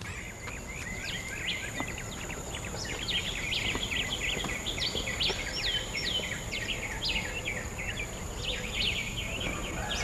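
Birds chirping in a busy chorus of short, quick calls, many sliding down in pitch, over a thin steady high-pitched tone.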